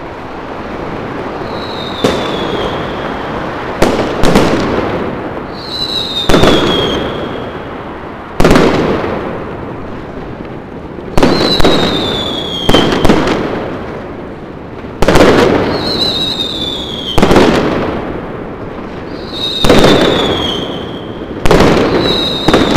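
Aerial fireworks exploding overhead, a loud bang every second or two with a rumble trailing each one. Several of the bangs are followed by a short, high, falling whistle.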